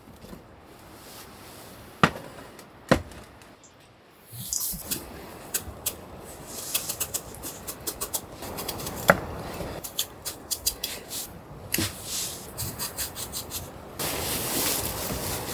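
Objects being handled: a few sharp knocks, many quick clicks and clacks, and stretches of rustling and scraping.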